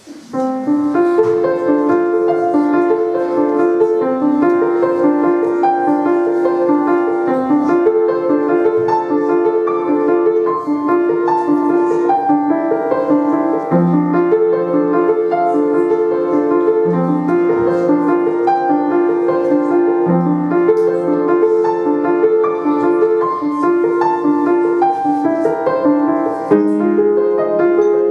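Solo piano playing a flowing piece of quick, repeating note figures in the middle register. Lower accompanying notes join about halfway through.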